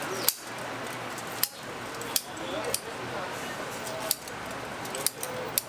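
Kitchen scissors snipping through a roast whole chicken: about seven sharp snips at uneven intervals.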